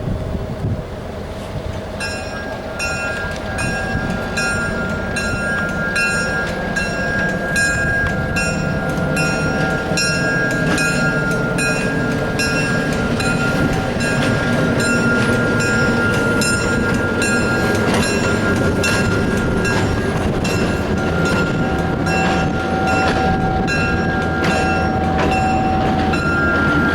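Passenger train rumbling and growing louder as it gets under way, with a bell ringing steadily about one and a half strikes a second from about two seconds in.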